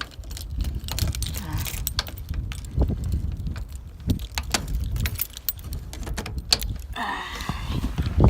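A ring of keys jangling and clicking, likely at a mailbox lock that is a little frozen, over a steady low rumble.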